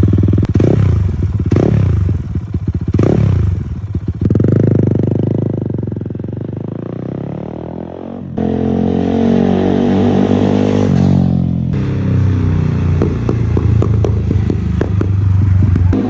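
Fantic Caballero 500's single-cylinder engine through an Arrow full racing exhaust: three quick throttle blips, then a longer rev that dies back down. About eight seconds in it jumps to a louder, steady run, and it settles again near the end.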